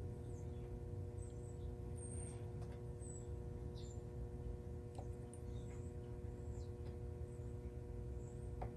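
Faint steady low hum with a few fixed tones, under scattered light clicks and short high squeaks, a sharper click near the end; small handling noises of spark plugs and ohmmeter probes.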